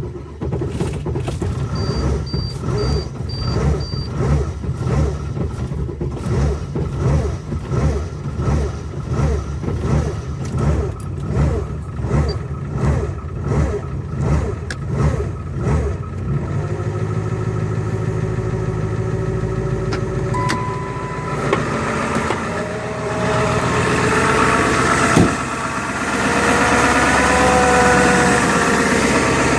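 2002 Ford F-350's 7.3 V8 turbo diesel catching on a cold start at about 6 degrees, unplugged after one glow-plug cycle, then running rough with an even pulsing about one and a half times a second. After about 16 seconds the running smooths into a steadier idle, with a whining tone that wavers in pitch growing louder near the end. Five short high beeps sound early on.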